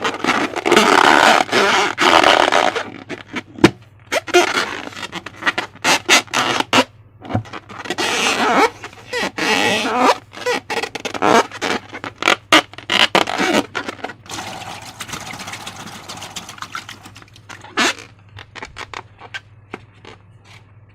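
Slime being squeezed and worked by hand: wet squelching and crackling with many small clicks and pops, growing quieter after about 14 seconds.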